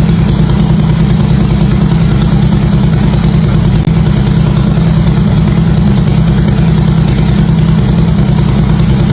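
Harley-Davidson V-twin engine idling steadily through its exhaust, a loud, even low rumble with no revving.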